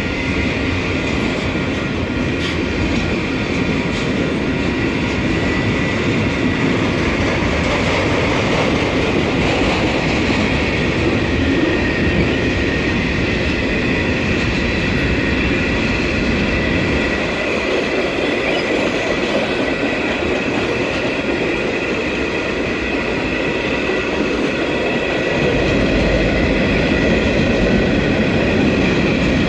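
Canadian Pacific freight train rolling past at close range: a continuous rumble of steel wheels on rail with steady high tones, and a heavier low rumble near the end.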